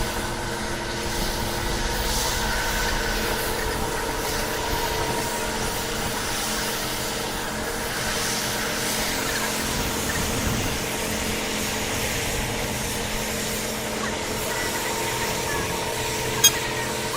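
A large engine running steadily with an even drone. One sharp click comes near the end.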